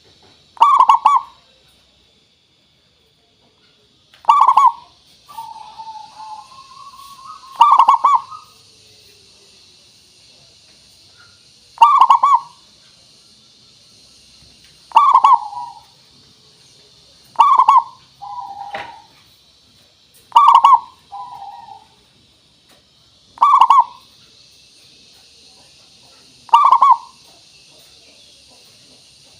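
Zebra dove (perkutut) cooing: a loud, short ringing coo phrase about every three seconds, nine times, with softer coos after some of them. A faint steady high hiss lies behind.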